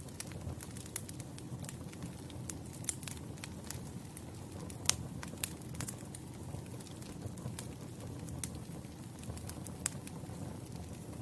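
Wood campfire burning with a steady low rumble of flames and irregular crackles and pops from the logs, a few sharper snaps standing out about halfway through and near the end.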